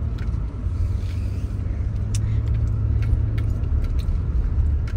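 Car driving along: a steady low rumble of engine and road noise, with a few faint ticks.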